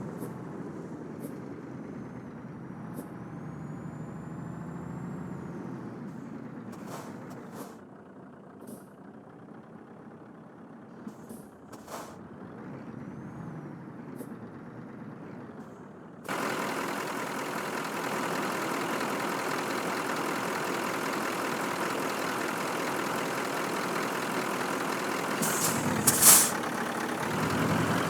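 Scania truck's diesel engine running as it drives a rough track, with a few clicks and rattles. About 16 s in the sound turns suddenly louder and noisier, and near the end comes a brief loud hiss of air.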